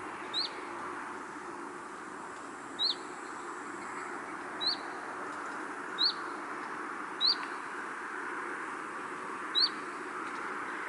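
A songbird repeating a single short, rising chirp six times, spaced one to two and a half seconds apart, over a steady rushing hiss of outdoor ambience.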